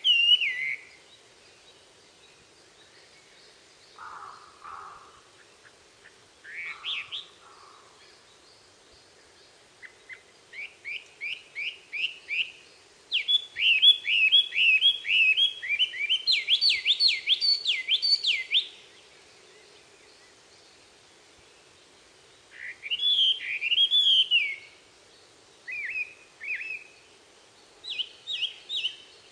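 Wild songbirds singing in early-morning chorus, with phrases of quick repeated sliding notes. The fastest, loudest run comes in the middle. A few softer, lower calls come early on.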